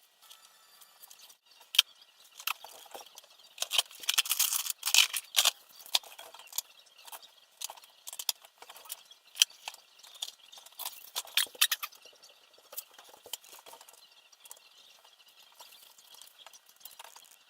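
Hands working over small drone parts: scattered clicks, taps and rustles, busiest about four to six seconds in and again around eleven to twelve seconds, then thinning out.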